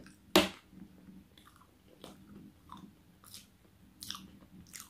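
Close-miked person chewing a mouthful of food with the mouth closed: one louder smack just after the start, then soft wet mouth clicks about every two-thirds of a second.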